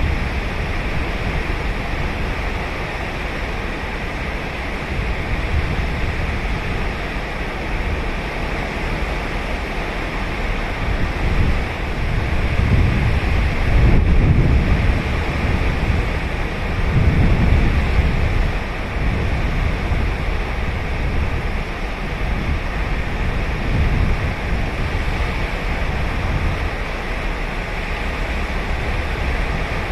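Ocean waves breaking and washing on a sandy beach, with louder surges about halfway through, and wind on the microphone.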